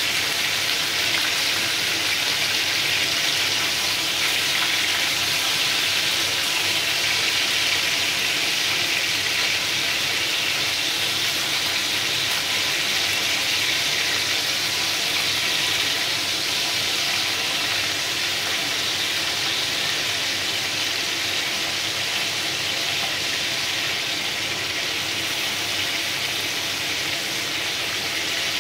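Chicken drumsticks frying golden in a pan, a steady sizzle, with crushed garlic and ginger browning in ghee in a second pan.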